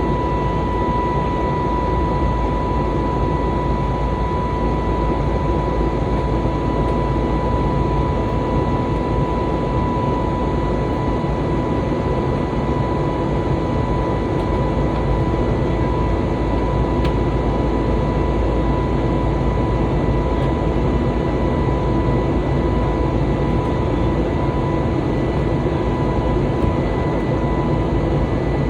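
Steady jet-engine and airflow noise inside an airliner cabin in flight, with a thin steady whine running through it.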